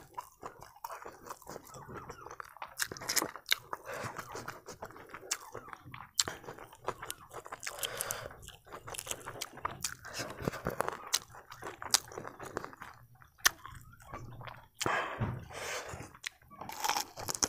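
A person chewing close to the microphone, with irregular wet mouth clicks and small crunches, while eating duck biryani by hand and picking duck meat off the bone.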